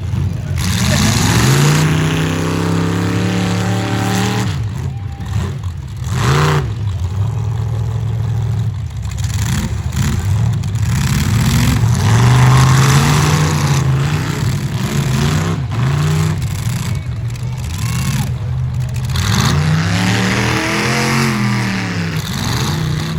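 Demolition derby cars' engines revving hard, the pitch climbing and falling again and again, several engines overlapping.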